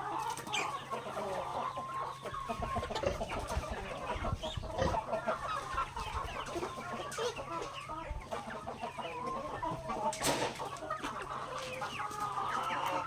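A flock of native chickens clucking steadily while feeding on grain, many short overlapping calls, with a sharp knock about ten seconds in.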